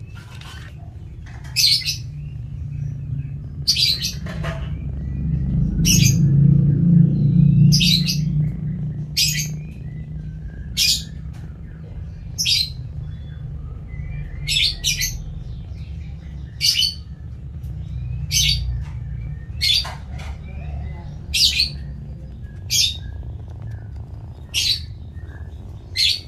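A bird chirping, one short sharp chirp about every one and a half seconds, with a steady low rumble underneath that swells around six to eight seconds in.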